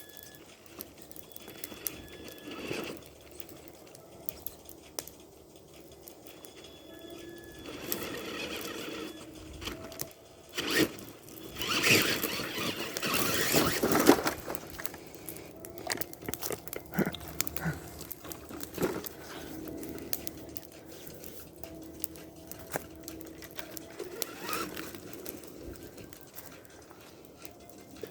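Tamiya TXT-2 RC monster truck driving over rough ground: small electric motors whining faintly under irregular scraping and crunching from the tyres and chassis, loudest in a rough burst about halfway through.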